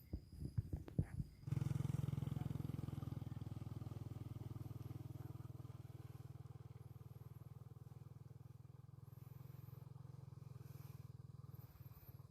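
A few knocks, then a small motorcycle engine starts running with a low, fast, steady pulse that slowly fades.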